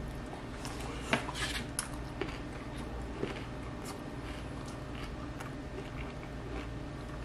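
Close-up mouth sounds of a man chewing a tuna, onion and pickle wrap: irregular wet smacks and clicks, busiest about a second in, over a steady low hum.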